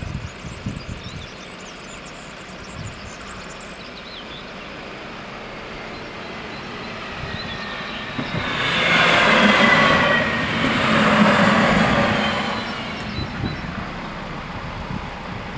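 A BR 650 (Stadler Regio-Shuttle) diesel railcar passes over the level crossing. It grows louder from about six seconds in, is loudest in two swells over the next four seconds, then fades. Faint squealing tones from the wheels drop in pitch as it goes by.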